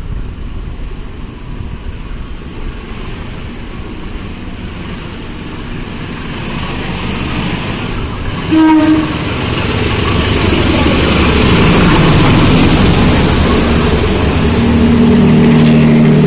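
A train approaching and passing through the station. The rail noise builds up, the horn gives one short toot about eight and a half seconds in, and then the train passes with a loud, steady rumble, with a low drone near the end.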